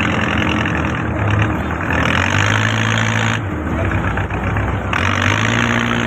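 Engine of a purse-seine fishing boat running steadily under way, with a broad rushing noise over it. The sound changes abruptly twice in the middle.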